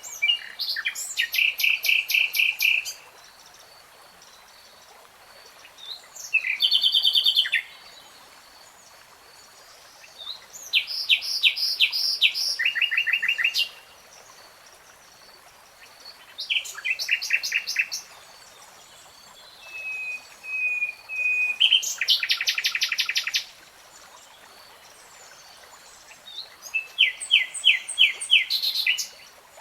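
Nightingale singing: six separate phrases of fast repeated high notes, each one to three seconds long, with short pauses between. A few drawn-out whistles lead into the fifth phrase.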